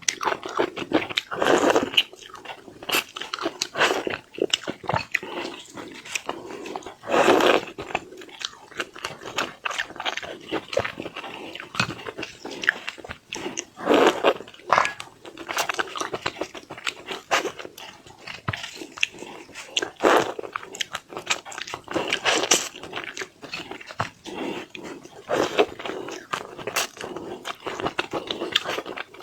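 A person eating seafood close to the microphone: a steady run of chewing and biting with sharp crunches and clicks, and louder bursts of crunching every few seconds.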